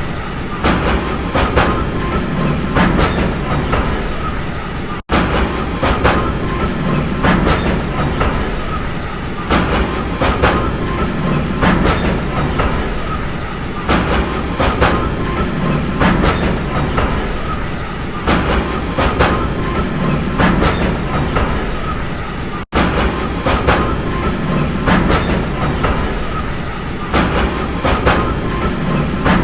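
Train running on rails: a steady rumble with repeated clickety-clack of wheels passing over rail joints. The sound cuts out for an instant twice, about five seconds in and again near twenty-three seconds.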